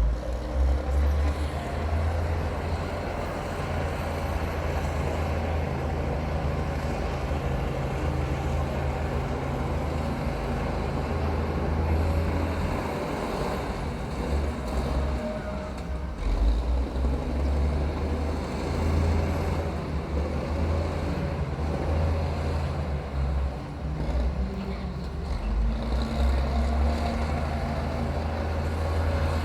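Heavy diesel engine of a bulldozer running steadily, its level rising and falling.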